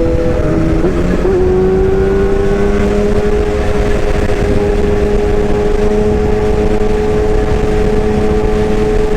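A motor running steadily with a humming whine. Its pitch drops about a second in, then climbs slowly for the rest of the time.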